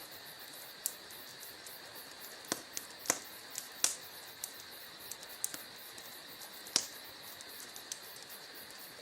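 Wood fire in a fireplace crackling, with irregular sharp pops and snaps over a steady hiss; the loudest pops come about 3, 4 and 7 seconds in.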